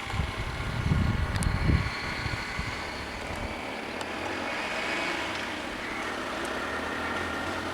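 A motor vehicle's engine running steadily, with low rumbling gusts in the first two seconds.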